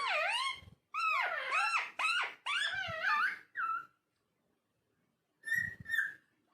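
Indian ringneck parakeet chattering in a run of high-pitched, speech-like phrases. It falls silent after about four seconds, then gives one more short call near the end.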